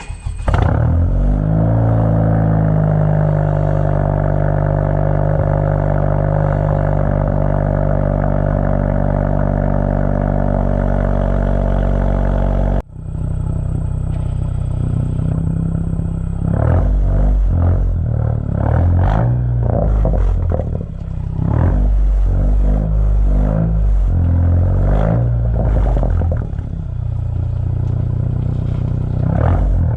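Straight-piped exhaust of a turbocharged 10th-generation Honda Civic: the engine starts just after the beginning and its idle settles down over the first few seconds into a steady idle. After a cut about 13 s in, it is revved in a series of uneven throttle blips.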